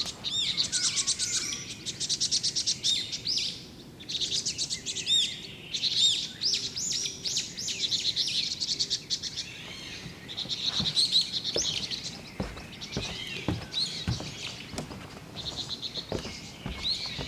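Small songbirds chirping and twittering, with rapid high trills and short calls overlapping one another. Faint short knocks or rustles join from about halfway through.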